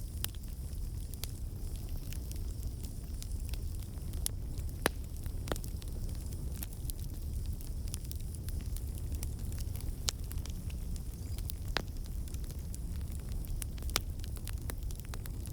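Campfire burning: a steady low rumble of flames with irregular sharp crackles and pops from the burning wood, a few louder pops scattered through.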